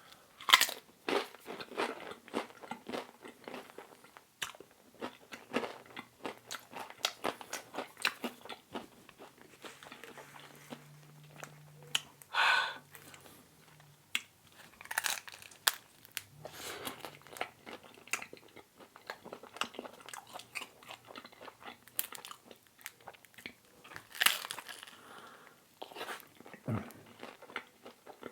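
Close-miked eating of crispy thin-crust seaweed pizza: crunchy bites and steady chewing with wet mouth clicks, with a louder crunching bite about halfway through.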